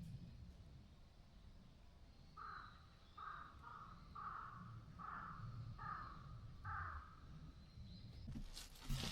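A crow cawing six times in a steady series, about one call a second. Near the end a loud rustling noise begins.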